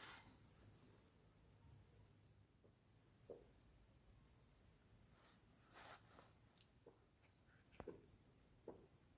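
Faint, high-pitched chirping of insects: rapid, evenly pulsed trills over a steady high hum, with a few faint clicks.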